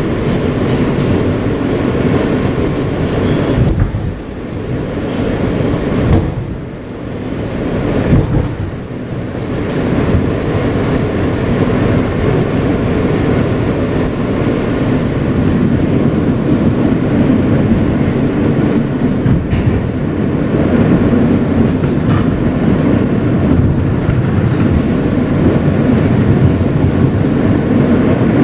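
Kawasaki R160B subway car with Siemens propulsion, heard from inside while running on the rails: a continuous rumble of wheels and car body. The rumble dips and comes back a few times between about four and nine seconds in.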